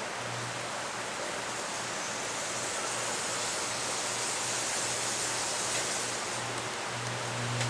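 Low electrical hum from a transformer near a downed power line, fading in and out and strongest near the end, under a steady hiss.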